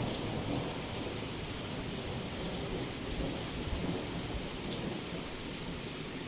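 Heavy rain pouring steadily against a window, with small drops tapping, under a low rolling rumble of thunder.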